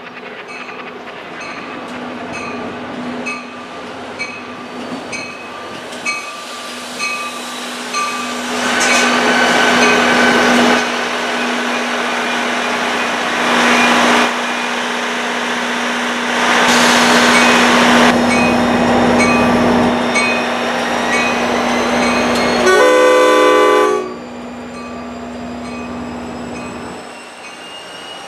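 NJ Transit commuter train with a GP40PH-2B diesel locomotive arriving at a station platform. Its bell rings about twice a second as it approaches, over a steady engine hum. The cars then pass with loud wheel and rail noise, and a short horn blast sounds near the end, followed by a faint rising whine.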